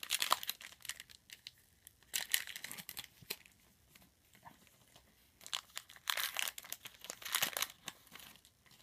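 Trading-card pack wrapper crinkling and being torn open in several bursts of rustling: at the start, around two to three seconds in, and again from about five and a half to nearly eight seconds.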